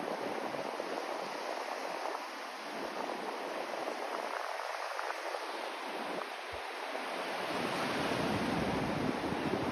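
Continuous rushing white noise of a sleep track, with a gently shifting low end, swelling slightly in level during the last few seconds.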